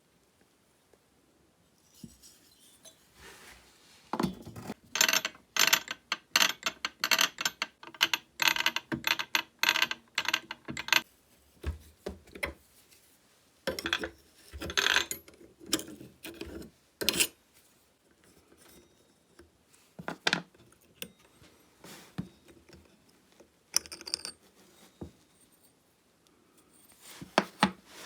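Metal tools and chainsaw parts being worked during disassembly: a fast run of sharp, ringing metallic clicks for several seconds, then scattered clicks and knocks.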